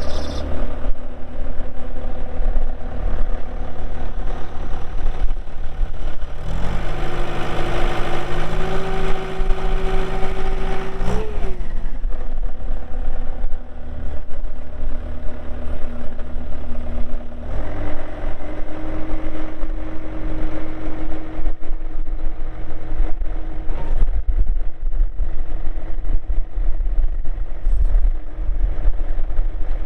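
2007 Bobcat T320 skid steer's 92 hp Kubota diesel running just after starting. It idles, is raised to a higher steady speed about six seconds in, drops back about five seconds later, then is brought up to a moderate steady speed past the middle.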